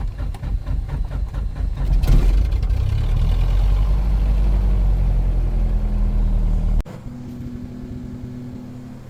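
Cessna 177 Cardinal's four-cylinder piston engine just after start, firing unevenly for about two seconds, then running steadily and louder. About seven seconds in the sound drops abruptly to a quieter, even engine hum.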